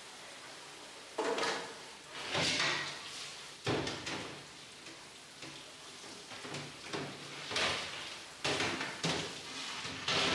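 Kitchen work sounds: a series of sharp knocks, bangs and scrapes of metal equipment being handled, about six a second or two apart.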